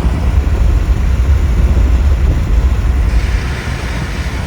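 A car driving, with a loud, steady low rumble of road and engine noise.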